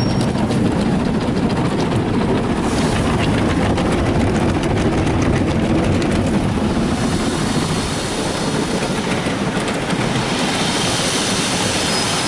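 Ryko Softgloss Maxx in-bay automatic car wash working over a truck, heard from inside the cab: a loud, steady rush of wash equipment and water on the body, easing slightly about eight seconds in.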